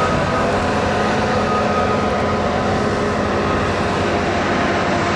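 Heavy vehicle engine running steadily, a low rumble with a steady hum of several tones over it.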